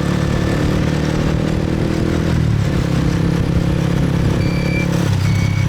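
Motorcycle engine running under way in city traffic, its note changing twice as the bike speeds up and slows.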